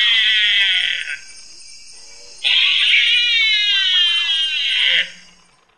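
Binturong (bearcat) giving two long, high-pitched calls, each falling slowly in pitch. The first ends about a second in, and the second starts about two and a half seconds in and stops near the end.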